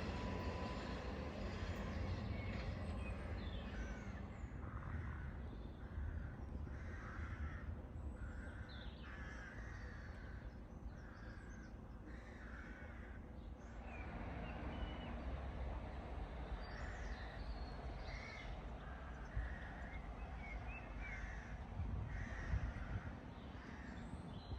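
Crows cawing in long runs of repeated calls, with a short break around the middle, over a steady low rumble.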